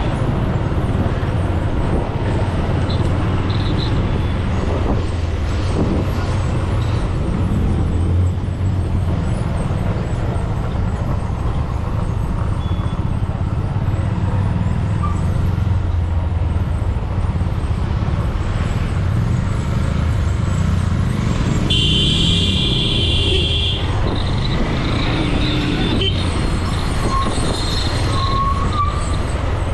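Motorcycle riding on a highway, its engine and road noise steady throughout. Near the three-quarter mark a vehicle horn honks for about a second and a half.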